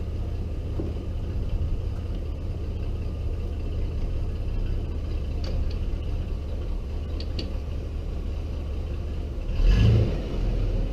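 1998 Chevy Blazer's 4.3-litre V6 running steadily with a low rumble, the truck up on jack stands. Near the end the engine surges briefly louder.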